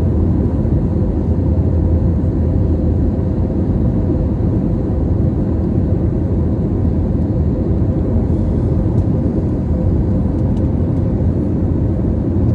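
Airliner cabin noise in flight: a loud, steady, deep drone of jet engines and rushing air, with a faint steady hum running through it.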